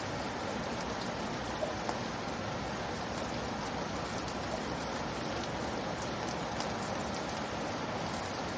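Steady light rainfall, an even hiss of rain with a few faint individual drop ticks.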